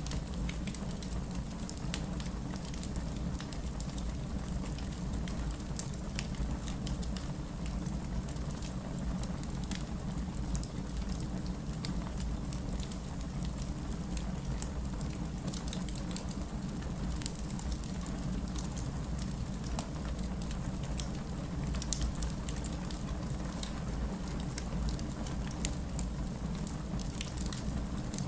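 Wood fire burning in a fireplace: irregular sharp crackles and pops over a steady low rumble of flames, with one louder pop about three-quarters of the way through.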